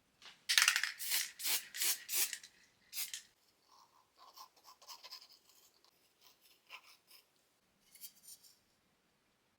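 A run of short, sharp scraping strokes on a workpiece, about two a second for the first few seconds. Then come quieter, irregular scratching and rubbing sounds.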